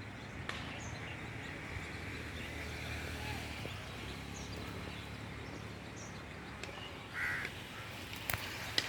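Outdoor ambience with birds calling: a few short, high chirps, then one louder call about seven seconds in. Two sharp clicks come near the end.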